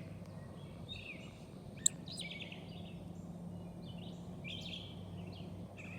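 Small birds chirping in short, repeated calls over a steady low hum, with one sharp tick about two seconds in.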